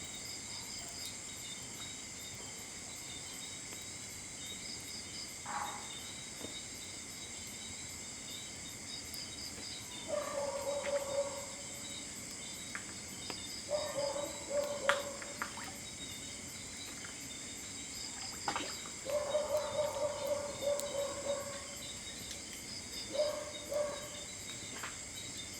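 Night insect chorus of crickets: a steady high-pitched trill with a pulsed chirp repeating about every two seconds. From about ten seconds in, short mid-pitched sounds come and go several times, with a few sharp clicks.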